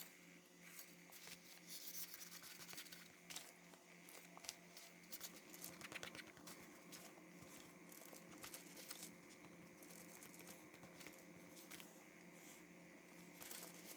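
Faint rustling and crinkling of paper handled by fingers, with soft scattered clicks, over a low steady hum.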